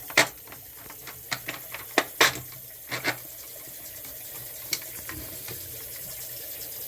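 Water running from a faucet into a sink, a steady hiss, with several sharp clinks and knocks over it in the first few seconds.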